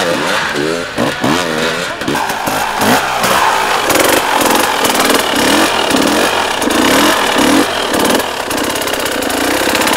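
Enduro motorcycle engine revving hard in short, repeated throttle blips, its pitch rising and falling about twice a second, typical of a bike working through a technical hard enduro section.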